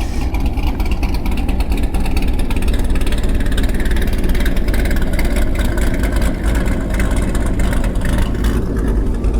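Cammed C6 Corvette's V8 engine idling, running steadily with an aftermarket camshaft.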